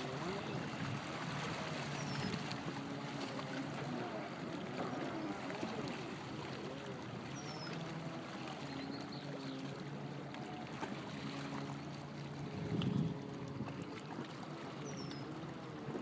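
Stand-up jet ski's engine running on the water, its pitch rising and falling as the throttle changes, over a steady rush of water. It swells briefly louder about three-quarters of the way through.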